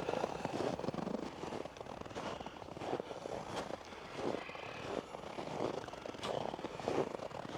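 Footsteps of a person walking through snow, at a steady pace of about three steps every two seconds.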